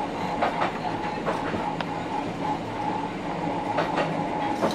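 Dubbed sound of an electric train running: a steady rumble with a constant high hum, and sharp clicks of wheels over rail joints every second or so.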